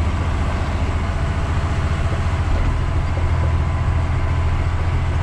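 Truck engine running steadily under load as it climbs a muddy grade, a constant low drone.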